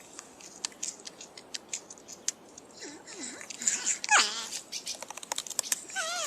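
North American porcupine vocalising: scattered sharp clicks with short, wavering whining squeaks, including a longer falling, quavering whine about four seconds in.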